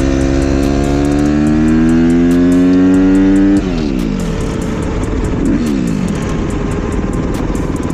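2015 Suzuki RM-Z250's single-cylinder four-stroke engine accelerating, its pitch rising steadily for about three and a half seconds, then the throttle snapping shut and the engine note falling away as the bike slows.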